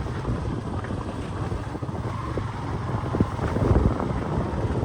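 Wind buffeting the microphone: a rough, steady low rumbling noise.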